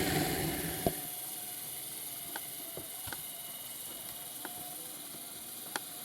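HO-scale Roundhouse Shay model locomotive's geared drive running loud, then dying away over about the first second. Afterwards only a faint hiss is left, with a few scattered light clicks.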